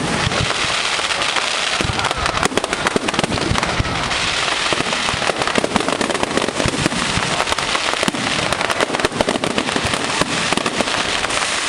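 Firework display in full barrage: rapid, continuous bangs and crackling that overlap with no pause.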